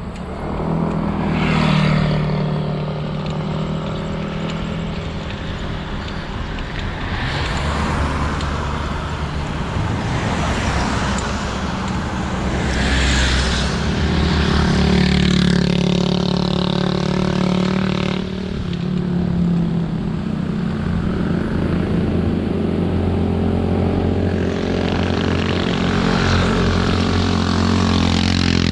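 Steady road noise from a moving bicycle, heard through an action camera's microphone: wind rushing over the mic, swelling and easing, over a low steady hum that suits motor traffic on the road.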